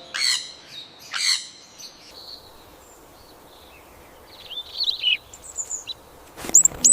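Wild birds calling: two loud, harsh squawks in the first second and a half, then softer chirps, and two sharp, high calls near the end.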